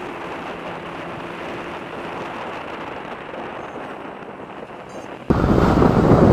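Wind and road noise on the microphone of a moving motorcycle, a steady rushing hiss. A little over five seconds in it abruptly becomes much louder.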